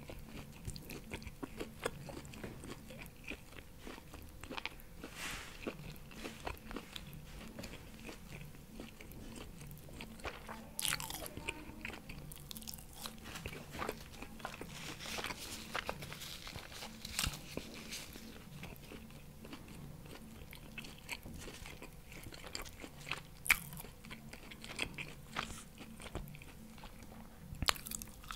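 Close-miked chewing of BBQ pork rib meat: wet mouth smacks and small clicks that come irregularly, with a few louder sharp smacks, one about 23 seconds in and another near the end.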